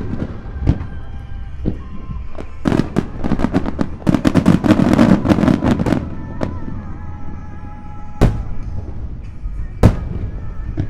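Aerial fireworks bursting: a few single booms, then a dense run of rapid crackling reports from about two and a half to six seconds in, then two lone loud booms near the end. Music plays faintly underneath.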